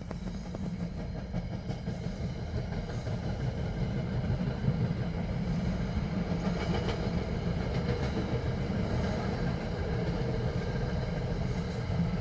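New Jersey Transit train passing, a steady rumble of wheels on the rails that grows louder over the first few seconds and then holds.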